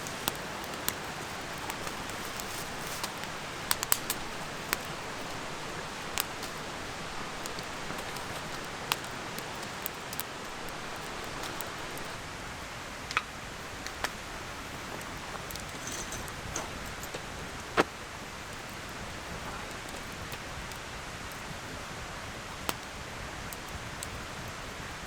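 Wood campfire burning, with sharp pops and snaps at irregular moments over a steady hiss.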